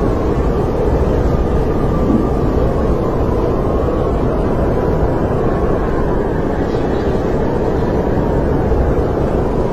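Snowstorm wind blowing steadily as a low rumble, with a faint howling tone that wavers slowly.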